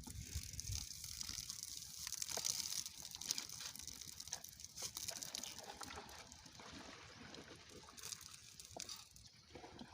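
Irrigation water running from a pipe into a field, a faint steady trickling and gushing.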